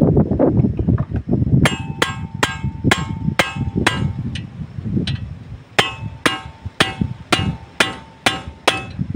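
Hammer striking metal in steady blows, about two a second, each hit ringing. There are two runs of strikes, about six and then seven or eight, with a short pause between them.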